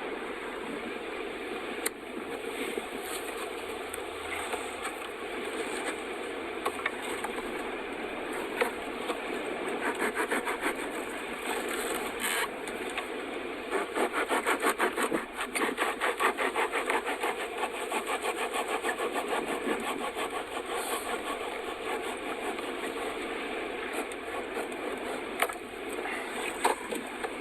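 Quick, repeated rasping strokes, like a small hand saw or rasp working wood, coming in runs through the middle, over a steady rushing background.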